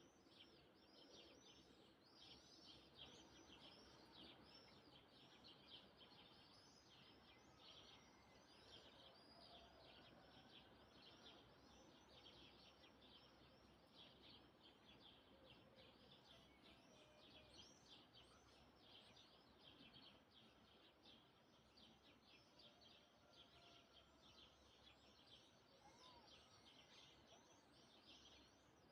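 Faint, continuous chorus of many small birds chirping, the high chirps overlapping densely with no break.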